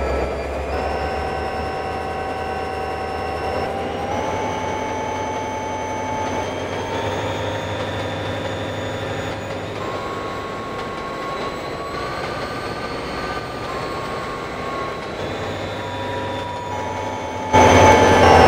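A train running, with a steady whine that steps up in pitch a little at a time. The sound gets suddenly louder about a second before the end.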